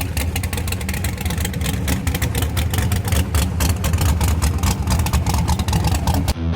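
Small-block V8 street car engine running loud with a rapid, choppy exhaust pulse, its level swelling and easing. Near the end it cuts off abruptly to rock music with electric guitar.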